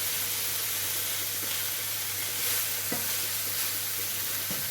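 Pieces of pork liver frying in a hot pan: a steady sizzle, with a few faint knocks in the pan.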